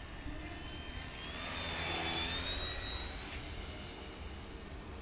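Radio-controlled model biplane in flight, its motor and propeller giving a high whine that rises in pitch and then holds steady, loudest about two seconds in as it passes.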